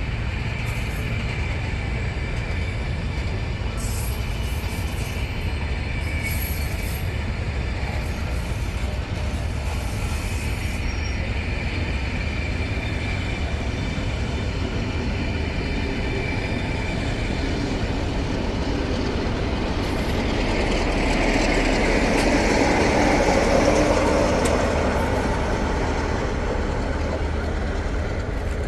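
A train running on the line with a steady rumble and a faint high whine in the first half. It swells louder about three quarters of the way through as the train comes closest, then eases.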